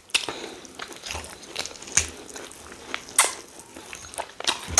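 Close-up eating sounds: a person chewing rice and stew with goat meat, with scattered wet smacks and clicks of the mouth.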